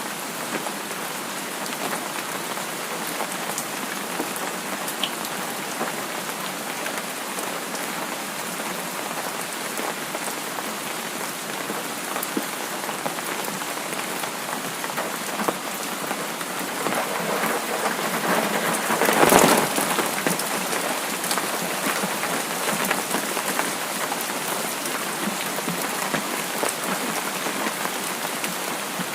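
Steady rain falling on a surface, an even hiss of drops. About two-thirds of the way through, the rain swells into a brief louder surge that peaks for under a second, then settles back.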